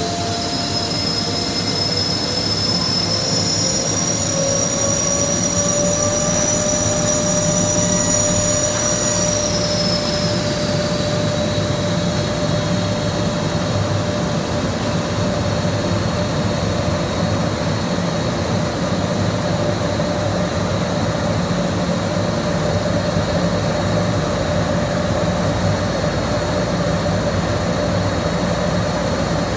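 Boiler under fire test, its burner and blower running steadily. Several whining tones rise in pitch over the first ten seconds or so, then hold steady.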